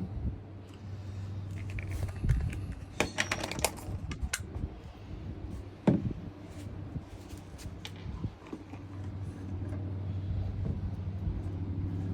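Small plastic clicks, taps and rattles of a tub-and-tile repair kit's containers and mixing tray being handled, with a quick run of clicks about three seconds in and a single sharper knock near six seconds, over a steady low hum.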